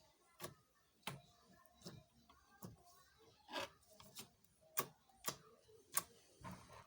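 Slime being worked by hand, making a series of sharp clicking pops, roughly one every half to three-quarters of a second.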